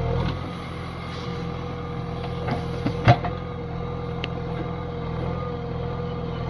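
Backhoe loader's diesel engine running steadily, with a steady whine above it and a single sharp knock about three seconds in.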